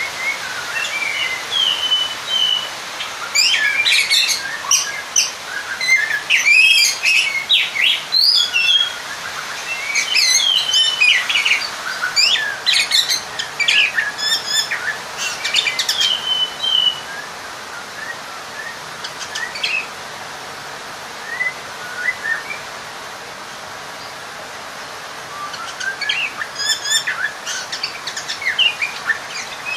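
Oriental magpie-robin (kacer) singing a fast string of whistles, chirps and harsh notes: its challenge song to a rival male. The notes come thick for the first half, thin out to a few scattered calls, and pick up again near the end, over a steady hiss.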